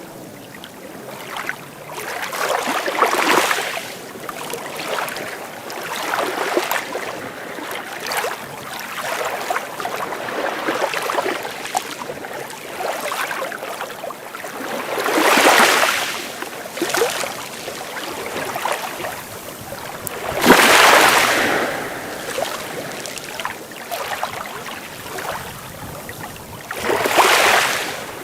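Sea waves breaking and washing in, a steady rush of surf that swells four times into louder breakers, the loudest about two-thirds of the way through.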